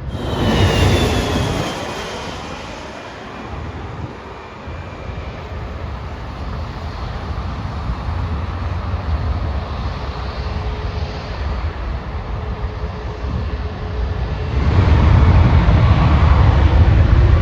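Jet airliner passing low overhead: a loud rush with high engine whines falling in pitch about a second in, then a steady jet rumble that swells louder again near the end.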